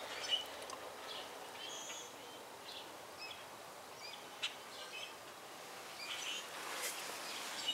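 Small birds chirping now and then in the background, short high chirps scattered through, with one sharp click about four and a half seconds in.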